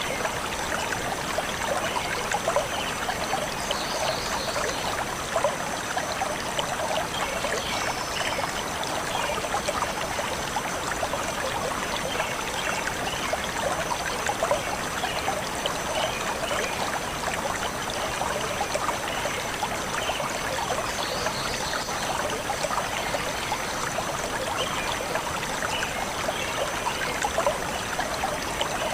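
Small stream flowing and trickling steadily, a continuous rush of water.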